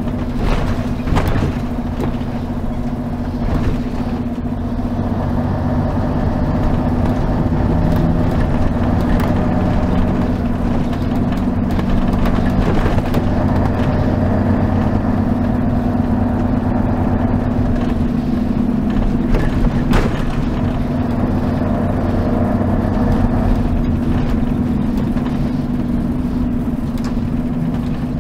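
Mercedes-Benz O 403 SHD coach's V8 diesel engine running, heard from inside the bus: a steady, even drone with a few sharp rattles or clicks now and then.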